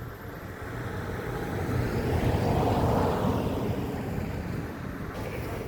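A road vehicle passing by, its noise swelling to a peak about three seconds in and then fading away.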